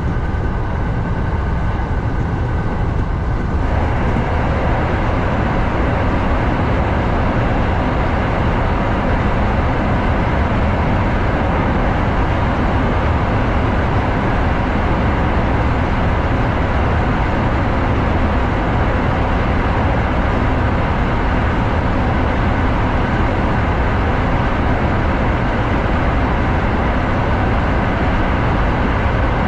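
Kintetsu 7000 series electric train running. At first a steady whine sits over the running noise; about three and a half seconds in, the train enters a tunnel and the sound turns into a louder, steady rumble of wheels on rail that lasts the rest of the way.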